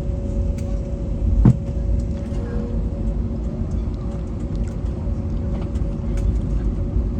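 Cabin noise of an Airbus A321neo taxiing: a steady low rumble with a steady two-tone hum, small rattles and clicks throughout, and one louder knock about a second and a half in.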